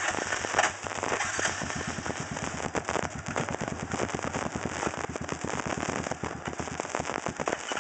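Off-road vehicle engine running hard with a rapid crackling, popping exhaust as it works through thick mud.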